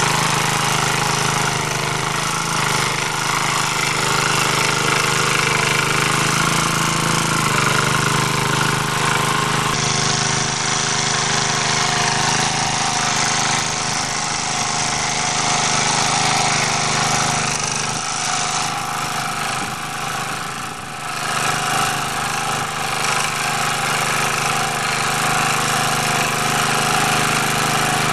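MD3 walk-behind tractor's engine running steadily in first gear while its rotary tiller cuts through garden soil. The level dips briefly about twenty seconds in.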